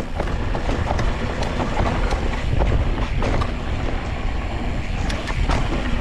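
Mountain bike rattling over rough, rocky trail: frequent sharp knocks and clatters from the wheels and frame over a steady low rumble.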